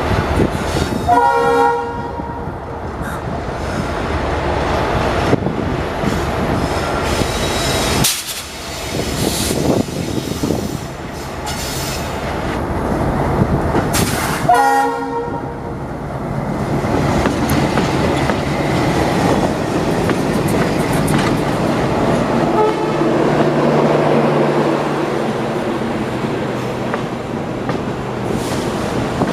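A passenger express train on the move, its locomotive sounding two short horn blasts, about a second in and again about halfway through, over the steady rumble and clatter of the wheels on the rails.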